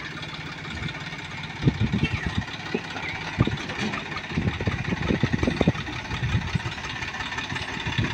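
Diesel tractor engine running, with irregular low thumps mixed in from about two seconds in.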